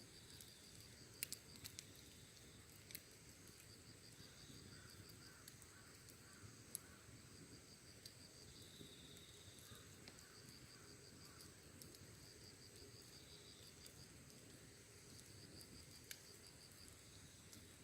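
Faint wood fire with a few sharp crackles and pops, the loudest a little over a second in. Under them, insects sing on steadily in rapid pulsing trills with a thin high whine.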